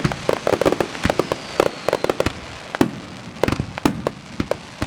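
Fireworks shells bursting in a rapid, irregular string of sharp bangs and crackles, densest in the first second and again near the end.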